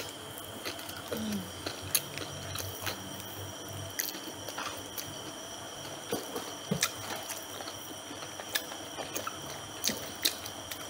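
Close-up mouth sounds of people biting and chewing crispy battered fried chicken: scattered crunches and wet chewing at an irregular pace, over a steady faint high whine.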